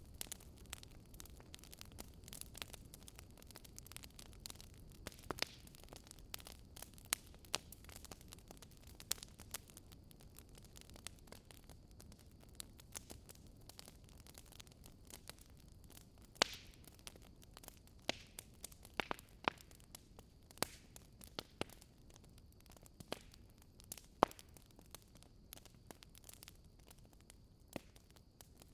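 Wood campfire crackling, with irregular sharp pops and snaps, a few louder than the rest, over a soft steady low rush.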